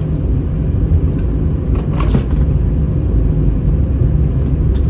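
Steady low cabin rumble of an Airbus A319 taxiing after landing, with its CFM56 engines at idle and the airframe rolling on the ground. There is a brief faint knock about two seconds in.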